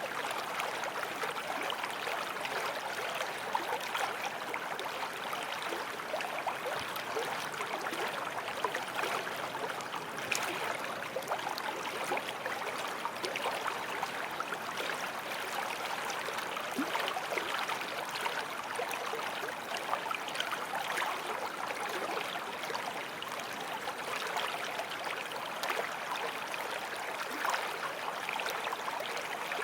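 Forest stream flowing steadily over stones, a continuous babble of water with small splashes and gurgles.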